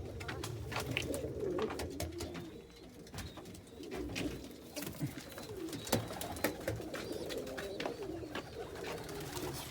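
Domestic pigeons cooing in a loft, a continuous low wavering murmur of several birds, with scattered light clicks and taps throughout.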